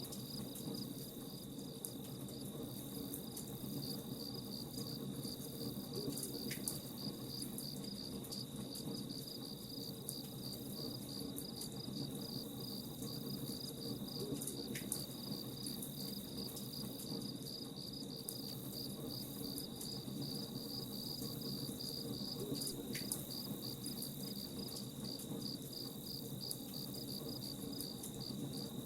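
Campfire crackling, with scattered sharp pops over a low steady rush, while crickets chirp in a fast, even pulse throughout.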